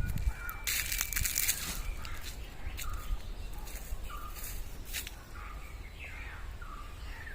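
Birds giving short, repeated chirps about every second, with a brief noisy rustling burst about a second in.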